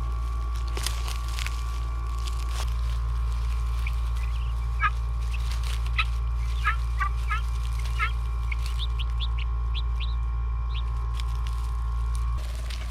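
Young guinea fowl keets calling: a run of short chirps about five seconds in, followed by quicker, higher peeps. A steady low hum runs underneath.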